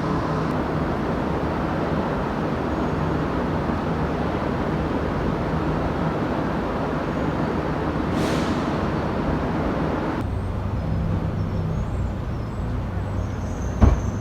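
Steady rumble and hum of a train, with a brief hiss about eight seconds in and a single thump near the end.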